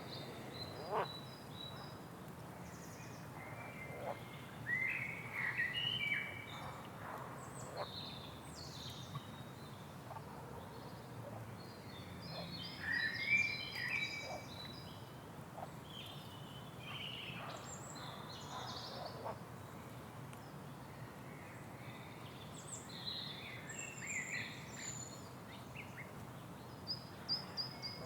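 Several small birds singing and chirping, with short warbled phrases and high calls coming in overlapping bursts, over a steady low outdoor background hum.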